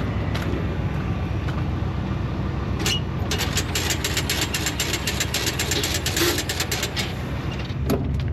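Engine idling steadily with a low hum. From about three to seven seconds in, a fast run of sharp clicks or rattles joins it.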